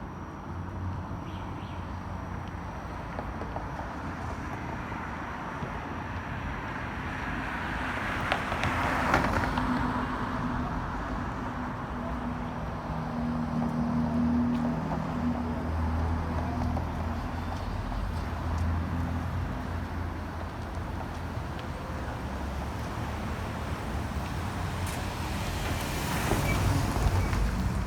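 City street traffic: vehicles passing one after another, a louder one going by about nine seconds in and another near the end, with a low engine hum in between.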